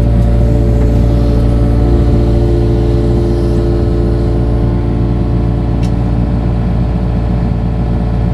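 Engine of a piece of digging equipment running steadily at a constant speed.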